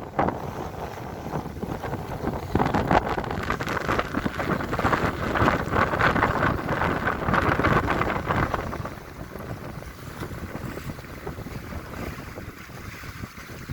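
Strong wind buffeting the microphone over sea waves washing in. It gets louder for several seconds in the middle, then eases.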